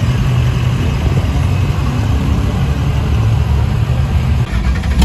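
Truck engine running steadily with a low drone, under a constant background hiss.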